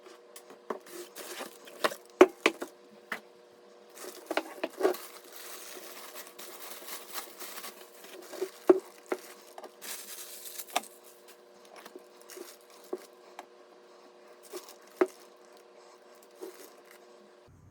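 Hands working with computer parts and their packaging: irregular clicks and taps with rustling and crinkling, the rustling busiest in the middle, over a faint steady hum.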